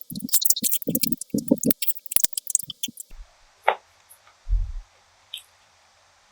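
Close-miked eating sounds: wet, squishy chewing with crisp little crackles and soft mouth clicks. The chewing stops about three seconds in, and only a few faint soft sounds and a low thud follow.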